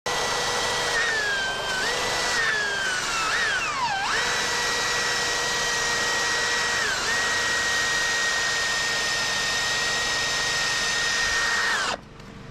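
Electric angle grinder running on steel, its high motor whine dipping in pitch several times as it bites under load, most deeply about four seconds in. It stops suddenly near the end.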